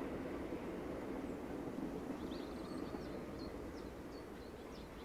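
The rumble of a departing heritage railway train slowly fades as it goes away. A small bird sings in short high chirps from about two seconds in.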